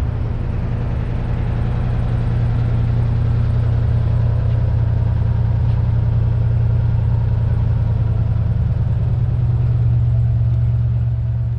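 A car engine idling steadily with a loud, deep rumble, starting to fade right at the end.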